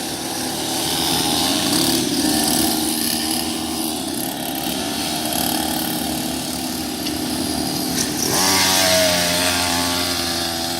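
Several pit bike engines running as the small bikes ride around on their sighting lap. About eight seconds in, one passes close and louder, its engine note rising and then falling.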